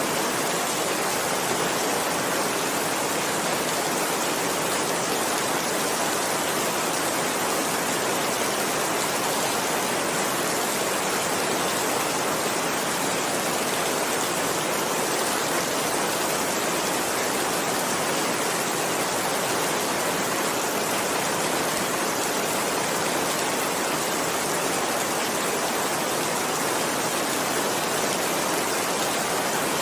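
Steady heavy rain falling, an even unbroken hiss of downpour with no change in intensity.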